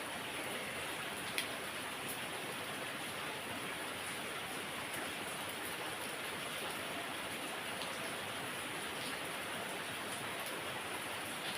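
Heavy rain falling steadily, an even hiss with no let-up. A single sharp tick about a second and a half in.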